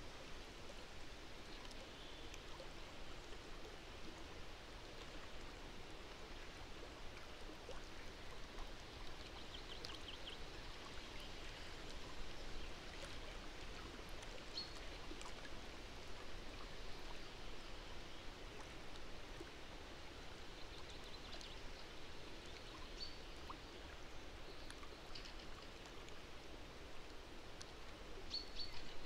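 Faint outdoor ambience: a steady soft hiss with scattered short, high bird chirps and one quick trill about a third of the way in.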